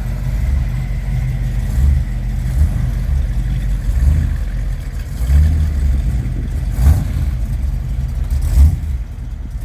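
Classic car engine running at low speed as it cruises past, a low rumble that swells and eases unevenly, with two short sharp sounds near the end.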